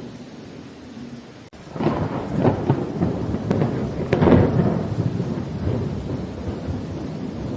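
Thunder rumbling over steady rain. A louder, crackling peal builds about two seconds in, is loudest around four seconds, then rolls on lower.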